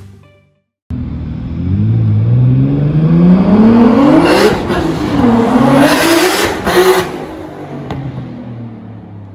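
Turbocharged BMW E46 M3's straight-six accelerating hard past, its revs climbing, dropping once at a gear change about halfway through, climbing again, then fading as the car pulls away.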